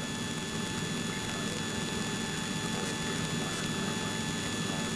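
Steady in-flight cabin noise of a light aircraft: an even engine and airflow drone with faint steady high-pitched tones over it.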